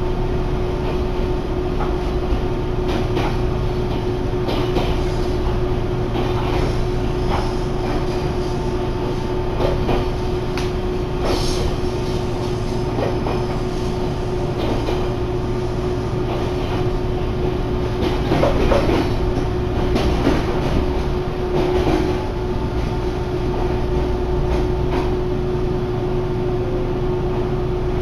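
Meitetsu electric train running, heard from inside the car: a steady low rumble and a constant hum, with irregular clacks of the wheels over rail joints. It grows briefly louder about two-thirds of the way through.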